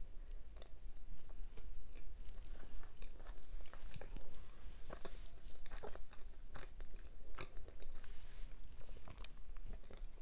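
A person chewing and biting food close to the microphone: irregular small clicks and mouth sounds, several a second, over a steady low hum.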